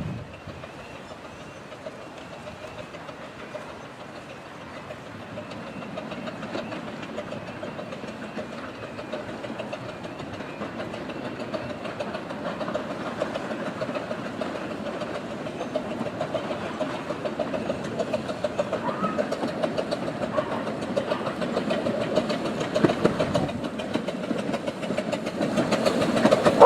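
A train on the 15-inch-gauge Romney, Hythe and Dymchurch Railway running, its steady rumble growing gradually louder as it draws closer.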